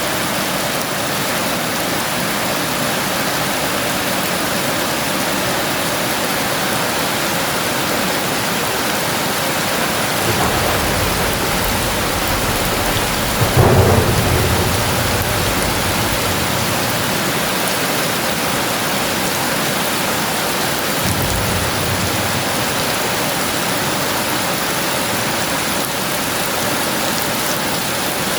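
Heavy rain falling steadily, with a roll of thunder building about a third of the way in to a sharp crack near the middle, then a fainter rumble a few seconds later.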